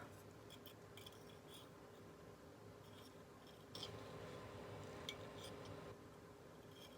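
Faint scraping of a Barnhart curette's blade drawn over a water-wetted sharpening stone, with small clicks and a slightly louder stretch of rubbing from about four to six seconds in.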